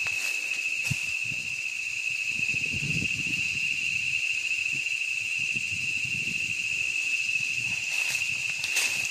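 A steady, unbroken high insect drone from forest crickets or cicadas, with soft irregular footsteps and rustling of leaf litter underfoot, and a few sharp snaps near the end.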